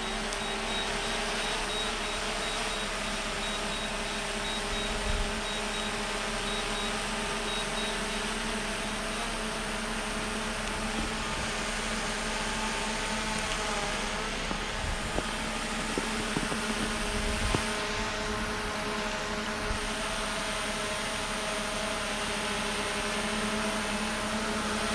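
Small quadcopter drone hovering, its propellers giving a steady hum with several pitches at once. A run of short, high beeps sounds through the first several seconds.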